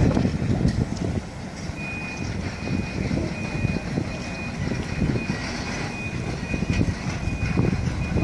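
Low rumbling and knocking of the former Fukui Railway car 803 rolling on its rails as it is pushed by hand. From about two seconds in, a high electronic warning beep repeats evenly, about one to two beeps a second.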